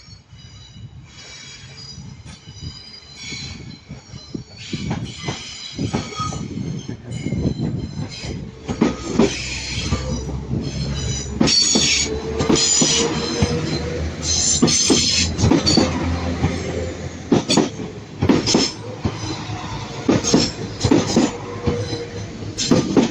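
Northern Class 195 diesel multiple unit pulling into the platform, its wheels clicking over rail joints and squealing on the track. It grows louder over the first dozen seconds.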